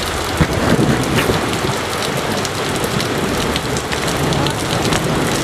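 Heavy downpour falling steadily, with individual drops ticking on a nearby surface.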